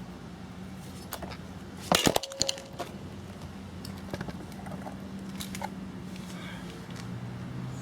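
Hand tools clinking and knocking against metal engine parts, with a quick cluster of sharp knocks about two seconds in and scattered lighter clicks after, as a stuck gear is worked off a pit bike's crankshaft. A steady low hum runs underneath.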